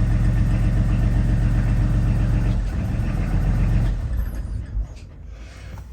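Volvo Penta D1-30 three-cylinder marine diesel idling steadily, then shut down on the stop control, running down and falling quiet between about three and four seconds in. A single soft knock follows near the end.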